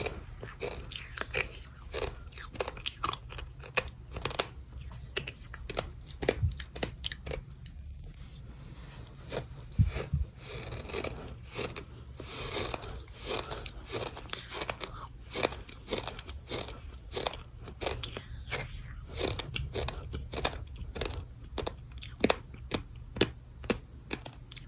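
Dry, crumbly sand crunching close to the microphone: a dense, irregular run of crisp crackles and crunches, with a louder crack about ten seconds in and a few more near the end.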